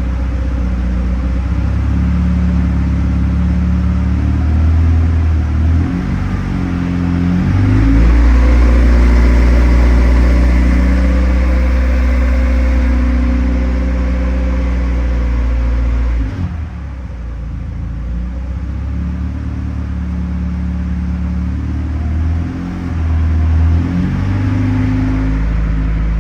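Honda B18 four-cylinder engine in a Civic EG hatch running under throttle as it is run through the gears, its engine speed holding steady and then stepping to a new pitch several times. It drops back and gets quieter about sixteen seconds in, then picks up again near the end.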